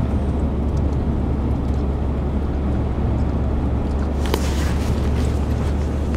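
Steady low rumble of a car's engine and tyres on a snowy road, heard from inside the cabin while climbing a hill. A few brief ticks come about four seconds in.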